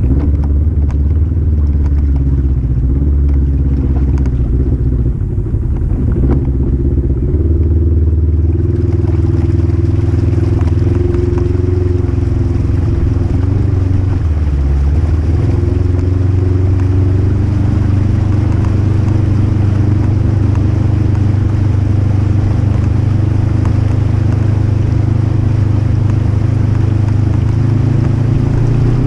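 Polaris RZR 1000 side-by-side's engine running steadily while under way, its note rising and falling a little. A hiss joins in about nine seconds in.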